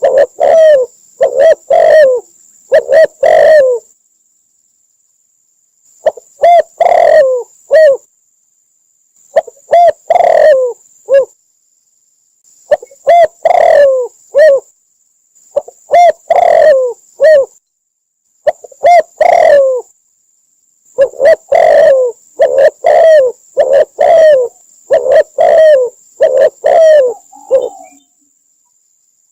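Spotted dove cooing: loud phrases of several low, mellow coos, repeated in groups with short silent pauses between them.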